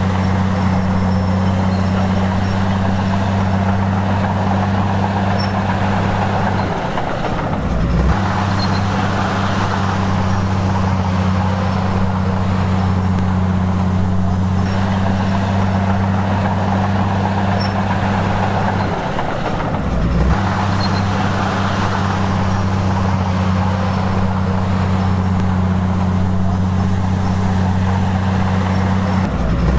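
Heavy diesel engine of an earthmoving machine running steadily at high revs. Its note dips in pitch and comes back up three times, roughly every twelve seconds.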